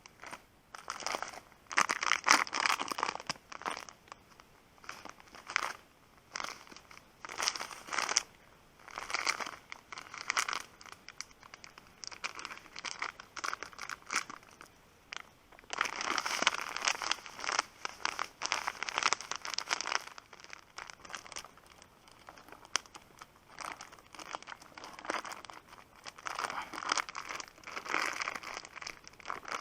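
Rustling and crinkling in irregular bursts, each about a second long, with the busiest stretches a couple of seconds in, midway, and near the end.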